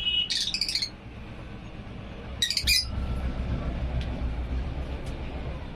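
Lovebirds giving two short bursts of shrill chirps about two seconds apart, over a low steady rumble that gets louder after the second burst.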